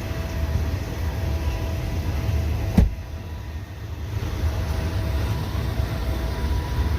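Freight train rolling past, a steady low rumble heard from inside a car, with one sharp knock about three seconds in.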